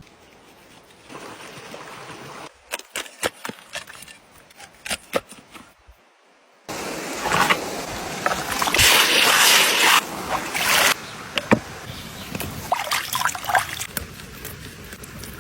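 Water splashing and trickling, loudest for a few seconds in the middle, amid sharp clicks and knocks from handling things.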